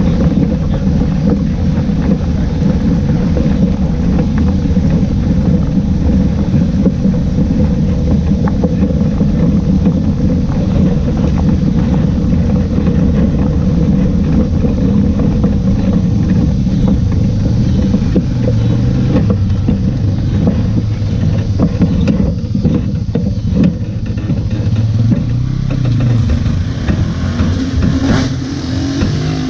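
Race car engine running hard and continuously at speed. Its note drops lower over the last ten seconds or so as it eases off.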